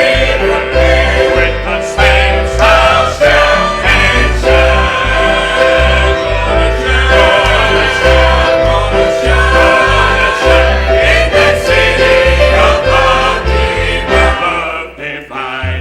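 Gospel music: singing over an instrumental accompaniment with a pulsing bass line.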